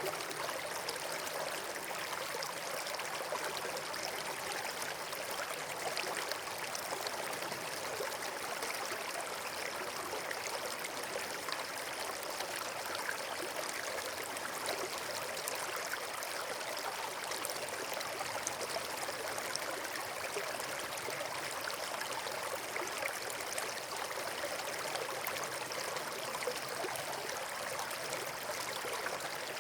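Running water rushing steadily: an even, unbroken hiss with no distinct pops or changes.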